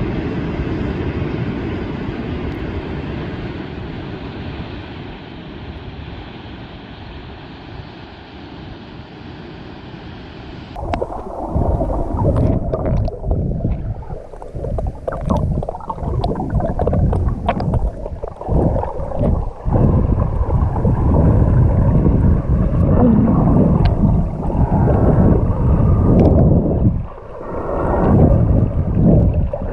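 A steady rushing noise of water or wind on the microphone. About eleven seconds in, it changes abruptly to choppy sloshing and gurgling water, like a camera being moved through the sea while snorkelling.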